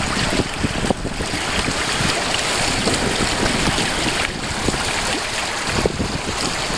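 Wind rushing over the microphone and water washing along the hulls of a Hobie 16 catamaran under sail, a steady noisy rush.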